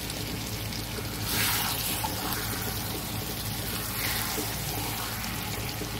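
Eggplant and potato masala sizzling in a non-stick frying pan as a spatula turns it. The sizzle swells briefly about a second in and again near four seconds.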